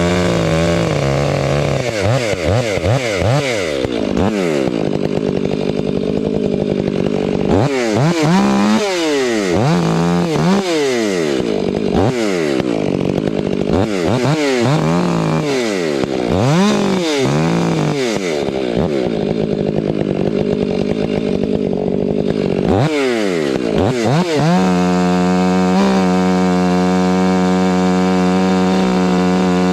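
Chainsaw engine revving up and down again and again, with short stretches held at high speed. About five seconds before the end it settles into a steady run.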